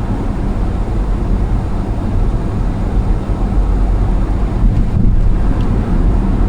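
A car driving at highway speed: steady low rumble of road and wind noise.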